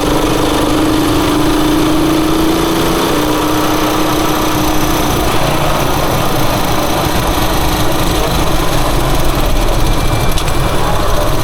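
Rusi Chariot 175 motorcycle engine running on the move. Its note rises slightly over the first few seconds, then fades into steady road and wind noise.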